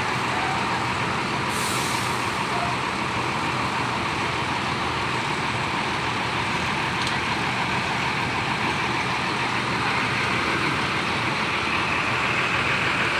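Diesel bus engines idling steadily, with a short burst of air hiss, like an air-brake release, about a second and a half in.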